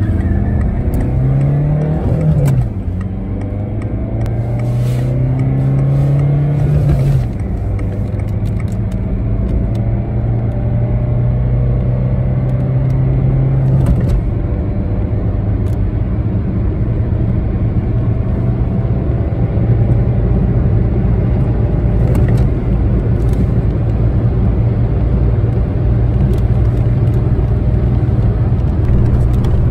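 Peugeot 206's 1.4 HDi four-cylinder turbodiesel accelerating hard through the gears. The revs climb in each gear and fall back at shifts about two and a half, seven and fourteen seconds in, then build slowly for a long stretch in a higher gear.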